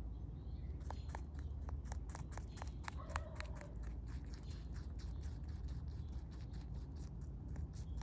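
Rabbit chewing close to the microphone: a quick run of crisp crunching clicks, several a second, starting about a second in, over a steady low hum.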